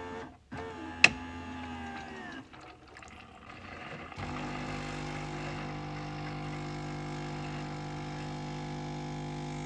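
Coffee machine motor hum cutting out, then a sharp click about a second in and a short hum that winds down. About four seconds in, a steady motor hum starts up again.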